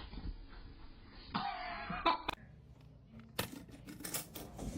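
A cough-like burst about a second and a half in, then a few sharp clicks, and a series of sharp knocks near the end.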